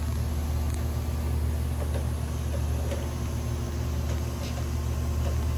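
Steady low mechanical hum, as of a motor or pump running, with a few faint light ticks.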